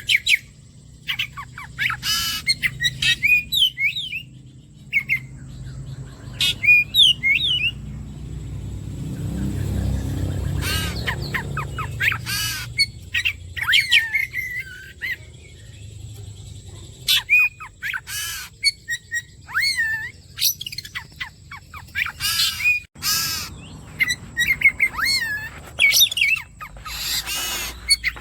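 Oriental magpie-robin (kacer) singing: a rapid, varied run of whistles, chirps and harsher notes in short phrases. A low rumble swells and fades under it about ten seconds in.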